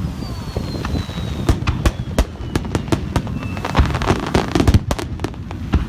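Fireworks display: a dense run of sharp bangs and crackling pops from bursting shells, with a thin whistle falling in pitch during the first half.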